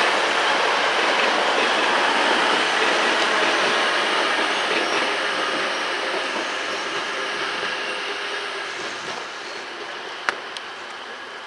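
A train running on the rails, its steady wheel and rail noise fading gradually as it moves away, with a single sharp click near the end.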